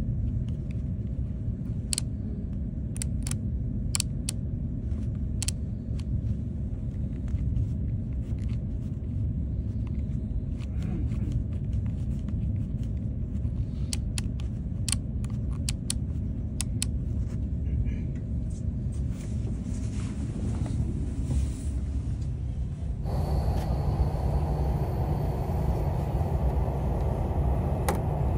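KTX high-speed train heard from inside the passenger carriage: the steady low rumble of the train running at speed, with scattered light clicks in the first half. Near the end the running noise suddenly turns louder and hissier.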